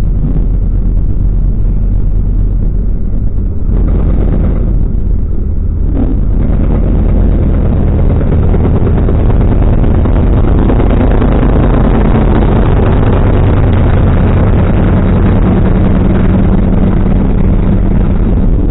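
Car driving, its engine droning steadily under a rush of road and wind noise that grows louder from about six seconds in.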